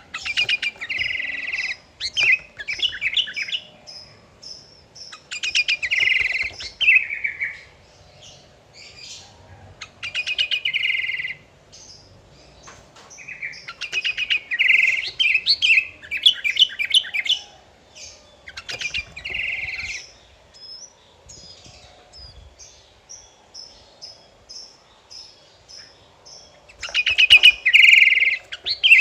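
Sooty-headed bulbul (kutilang) singing loudly: short phrases of quick, rapid notes every few seconds, with softer high chirps between the phrases.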